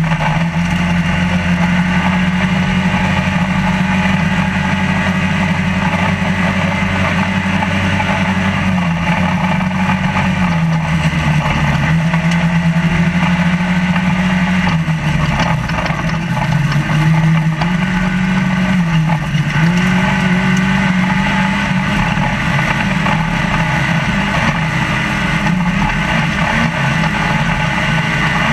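Trophylite off-road race truck's engine running hard, heard from inside the cab at race pace; its pitch dips and recovers several times in the middle stretch as the throttle is eased and reapplied, over a constant wash of loud driving noise.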